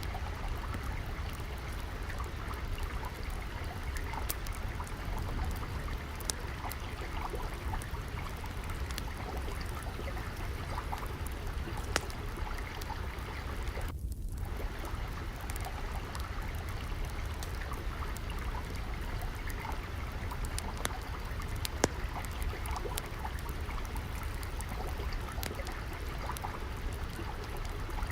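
Steady trickling, flowing water with a low rumble, dotted with sharp pops and crackles of a wood fire. The loudest pops come about twelve and twenty-two seconds in.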